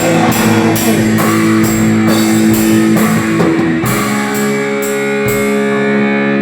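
Heavy rock music with guitar and drum kit, the cymbals struck about twice a second; about four seconds in the guitar changes to a held, ringing chord as the drumming thins out.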